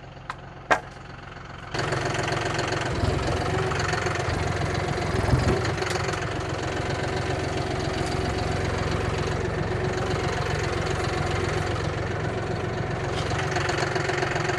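Vehicle or machine engine idling quietly, with two sharp clicks, then throttled up about two seconds in and held at a steady higher speed under load, lifting a concrete-footed sign out of the ground.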